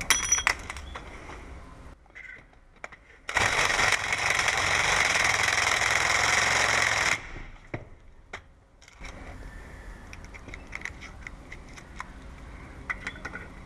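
Power drill running for about four seconds, its bit grinding through aluminium to enlarge a hole. Light clicks and taps of handling come before and after.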